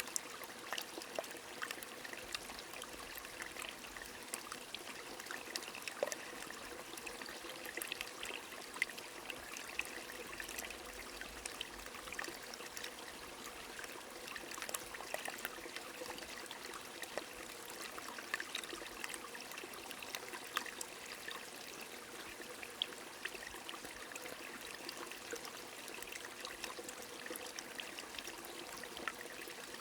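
A small stream running steadily under rain, with many scattered sharp drop ticks over the continuous water hiss.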